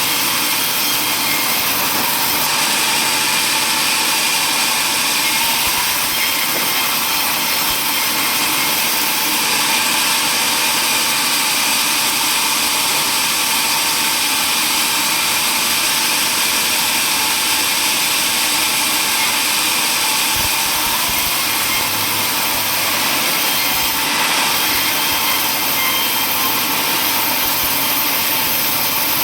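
Power saw running steadily and cutting through wood, a continuous loud sawing noise with no pauses.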